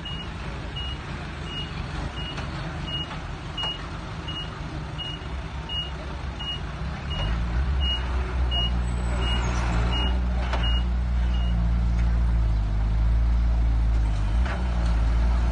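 Reversing alarm of a heavy construction machine beeping steadily, about one and a half beeps a second, over its running engine. The beeping stops about three-quarters of the way through, and the engine grows louder about halfway.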